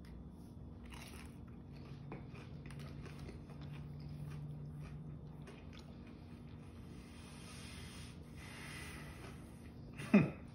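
Faint chewing of a mouthful of battered fried fish: soft crunches and mouth clicks over a low steady hum, with a short louder sound near the end.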